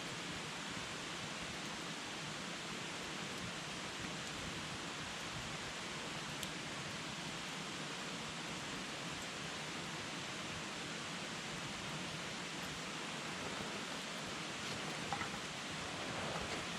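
Wood campfire burning: a steady hiss with a few sharp crackles, sparse and separate, and a small cluster of them near the end.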